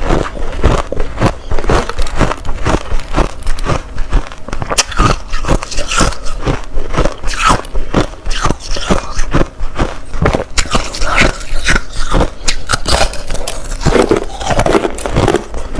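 Crushed ice being bitten and chewed close to the microphone: a steady run of hard, crackly crunches, about three to four a second.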